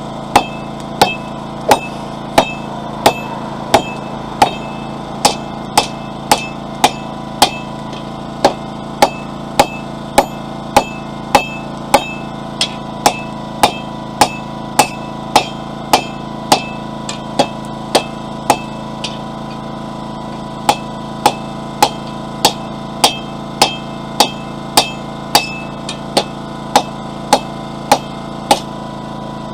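Hand hammer striking hot mild steel bar stock on an anvil in a steady rhythm, about one and a half blows a second, each with a short metallic ring. There is a brief pause about two-thirds of the way through. A generator hums steadily underneath.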